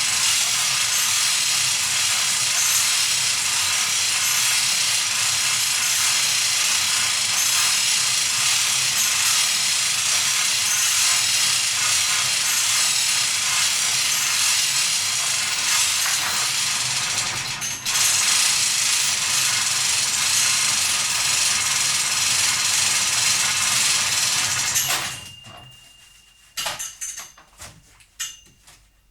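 Homemade rope hoist for lowering bicycles, running with a loud, steady, hissing mechanical noise. It cuts off about 25 seconds in, followed by a few sharp clicks and knocks.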